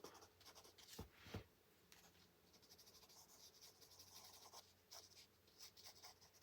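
Faint scratching of a colored pencil stroked lightly over paper, with two soft taps about a second in.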